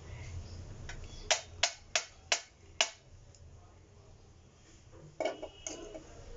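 Five quick, sharp knocks about a third of a second apart, then a short clatter of hard objects with a brief ringing about five seconds in.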